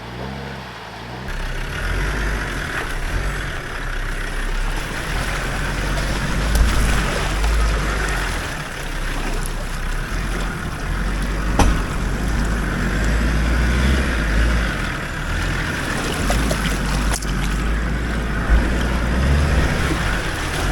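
A 4WD driving along a rough track, heard as a steady rushing noise with heavy wind buffeting on the microphone and a low rumble, with a few sharp knocks from the bumpy ground.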